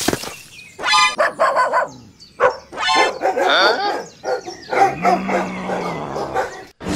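Dog barking sound effect: several short barks with pauses between them, voiced for a small toy animal.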